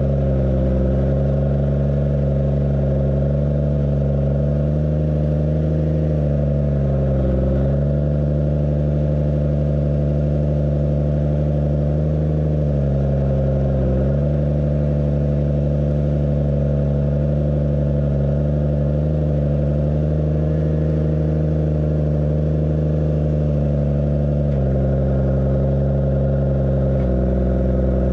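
Tractor engine running steadily under heavy load while pulling a plough, its note sagging briefly a few times as the load changes.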